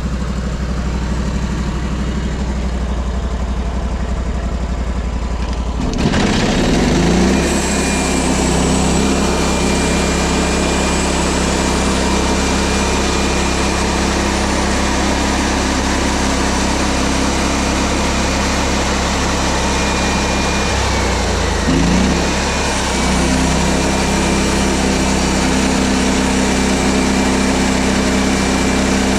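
Woodland Mills portable band sawmill's small gasoline engine running; about six seconds in it picks up speed and a steady high whine sets in as the band blade cuts through the log. Near three quarters of the way through the engine sound dips briefly and picks up again.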